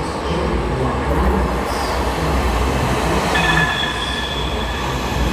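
Muni Metro Siemens LRV4 one-car light-rail train moving in the underground station: a steady low rumble of the car on the rails, with a high wheel squeal starting about three seconds in.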